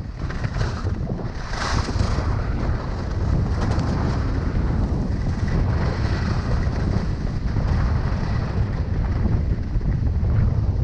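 Wind buffeting the microphone during a fast ski run, a steady heavy rumble, with the hiss of skis carving on hard snow that surges about two seconds in.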